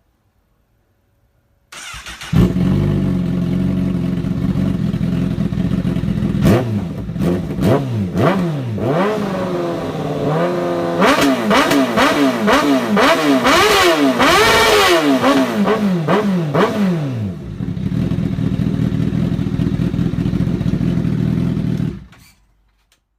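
A 1000 cc motorcycle engine starting a couple of seconds in and idling, then revved in a long series of quick blips through its exhaust, before settling back to idle and shutting off near the end.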